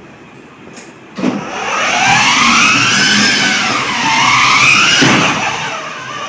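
Electronic siren of a toy ride-on police car, starting with a click about a second in and then wailing, its pitch sliding slowly up and down.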